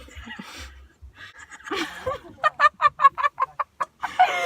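A person's voice making a quick run of short, pitched cackling sounds, about six a second, for a second or so midway.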